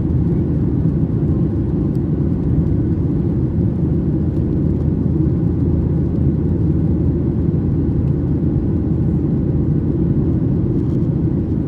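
Steady cabin drone inside a Boeing 737-800 with CFM56-7B engines: an even, low rumble of engine and airflow noise, unchanging in level.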